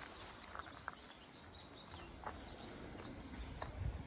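A small bird chirping over and over, a short rising note about two to three times a second, faint against outdoor background noise, with a few soft knocks.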